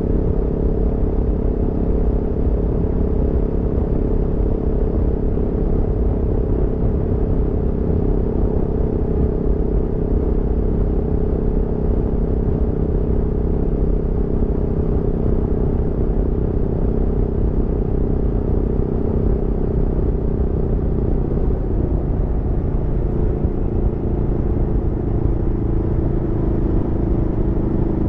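Aprilia Tuono V4 motorcycle's V4 engine running at a steady cruise under a low rumble of wind and road noise, its pitch easing down a little about two-thirds of the way through and then holding.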